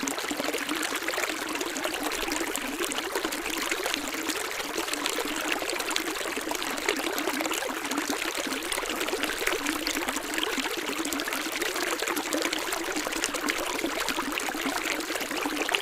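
Running water of a stream flowing steadily, a light rush with little deep rumble.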